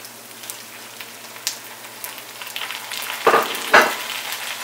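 Small whole brinjals and onions frying in sesame oil in a wok, a steady sizzle. A little after three seconds in, two short thumps as sliced tomatoes are tipped in from a plate, and the sizzle grows a little louder after them.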